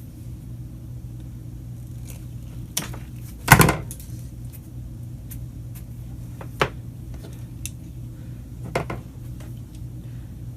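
Wire strippers clicking as insulation is stripped from the extension cord's wires: a few separate sharp snaps, the loudest about three and a half seconds in, over a steady low hum.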